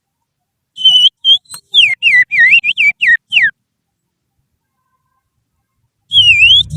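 Finger whistling in imitation of an oriental magpie-robin's (kacer's) song: a run of quick, high whistled notes that swoop up and down for about three seconds, a pause, then another rapid burst near the end.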